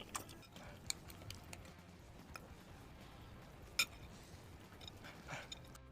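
Close-miked eating of chewy baso aci: scattered soft chewing smacks and mouth clicks, with one sharper click about four seconds in.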